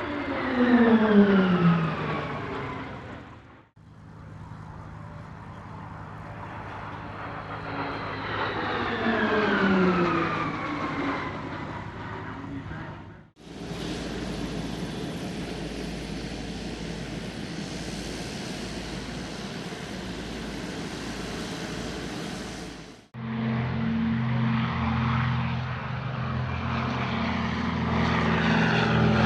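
Fixed-wing aircraft engines in a run of separate airshow clips. Two fly-bys have a falling pitch as the aircraft pass, then comes a stretch of even rushing noise, and in the last few seconds a steady engine drone.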